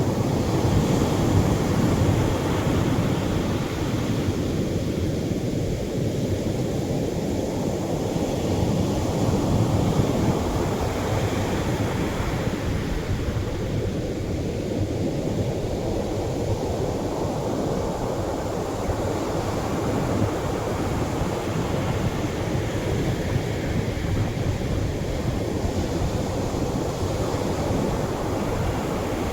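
Ocean surf breaking on a sandy shore, heavier waves in a constant rush of water that swells and eases every several seconds.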